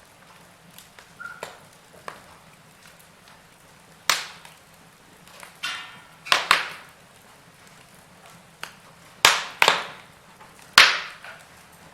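Wood fire burning: faint crackling with about six loud, sharp pops and snaps from burning logs, the first about four seconds in and the rest in pairs a second or more apart.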